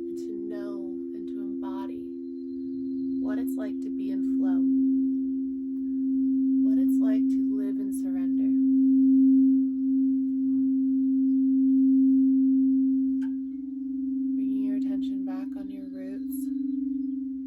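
Singing bowls ringing in a sound bath: two steady, sustained tones a little apart in pitch, swelling and easing in loudness, with the pitch shifting slightly about two-thirds of the way through.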